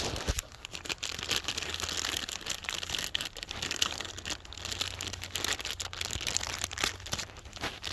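Plastic packaging around a new replacement part crinkling and crackling as it is handled, a dense run of small irregular crackles.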